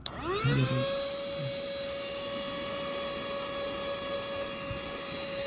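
Rechargeable handheld mini vacuum cleaner switched on: its small motor spins up with a rising whine over the first second, then runs at a steady high whine.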